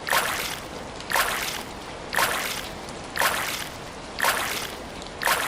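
Six splashes of water, evenly spaced about a second apart, each fading quickly, over steady rain.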